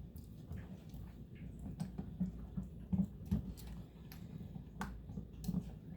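Scattered light clicks and taps from kitchen utensils, a dozen or so spread irregularly, with faint low knocks between them.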